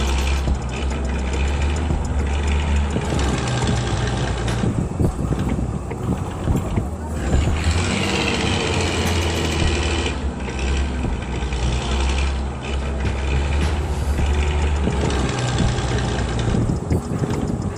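A mini tractor's small engine running steadily with a low hum, dipping briefly a few times.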